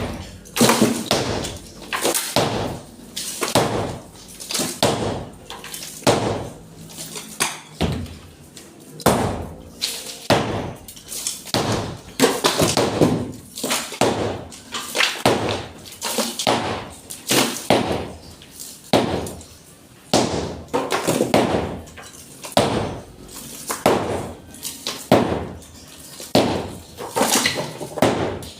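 Repeated hammer blows on a masonry wall being knocked down, about one strike a second, each with a short rattle of breaking material.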